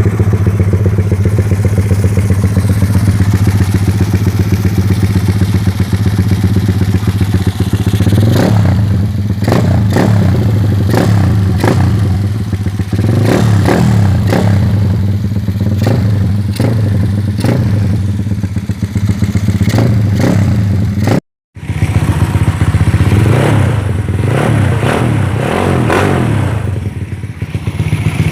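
Small motorcycle engine idling steadily, then from about eight seconds in blipped with a string of quick throttle revs, each rising and falling back to idle. The sound drops out for a moment about three-quarters of the way through, then the revving resumes.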